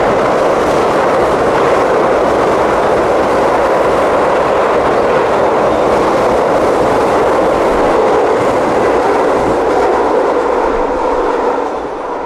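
Keio 8000-series electric commuter train running through a station platform at speed without stopping: a loud, steady rush of wheels and cars going past close by, dying away near the end as the last car clears.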